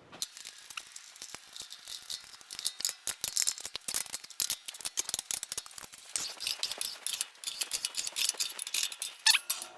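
Rapid, irregular metallic clicks and rattles of steel parts being handled on a steel fixture welding table: a freshly welded steel frame and its fixtures being moved to check the frame for flatness.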